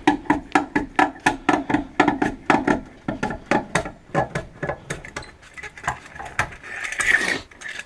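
Trolley jack being worked under the car: quick, even mechanical clicking at about four strokes a second, stopping about six and a half seconds in, then a short hiss.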